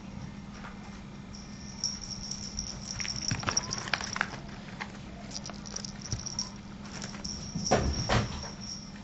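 A cat playing: scattered light taps and scuffles of paws and a toy on the floor, with a louder thump and scuffle about eight seconds in, over a steady low hum.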